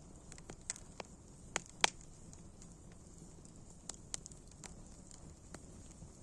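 Wood fire burning with a low steady rumble and irregular sharp crackles and pops, the loudest pop about two seconds in.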